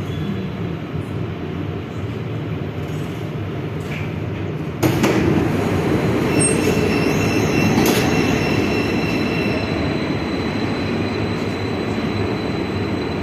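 Minsk metro train heard from inside the carriage during a station stop: a steady low rumble, then a sudden louder rush of noise about five seconds in, with a thin high squeal for a few seconds and a click.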